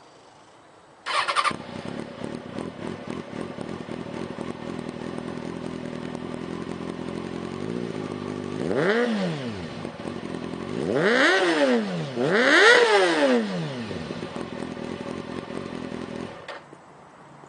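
2006 Kawasaki Ninja ZX-636 inline-four sportbike with a Yoshimura aftermarket exhaust starting up about a second in, idling, then blipped three times, each rev rising and falling back to idle, before being switched off near the end.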